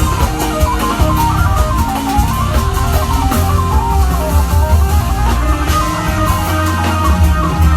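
Jazz-fusion band playing: a fast melodic line running up and down in quick steps over a heavy bass line and busy drums.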